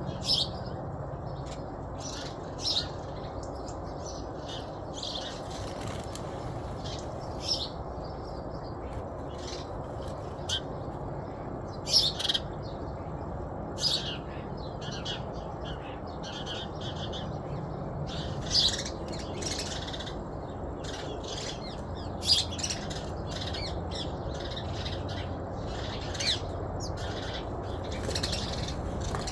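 Birds chirping in short, scattered calls every second or two over a steady low background rumble.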